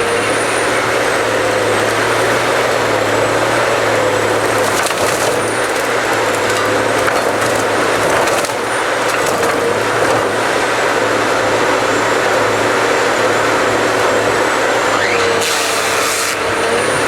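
Cut-to-length harvester processing a tree: the machine's engine and hydraulics run steadily while the head's spiked feed rollers pull the stem through the delimbing knives, limbs cracking and splintering off. A hydraulic whine rises near the start and again near the end.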